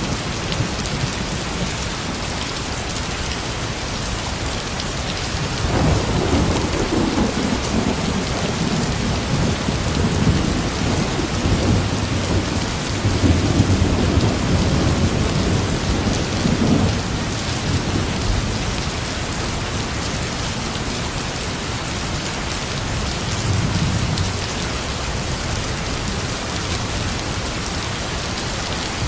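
Steady heavy rain falling, with a low rolling rumble of thunder from about six seconds in that swells and fades by about seventeen seconds, and a shorter rumble near the end.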